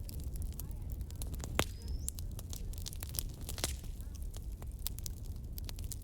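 Campfire crackling: irregular sharp pops and snaps over a low steady rumble, with a brief high whistle about two seconds in.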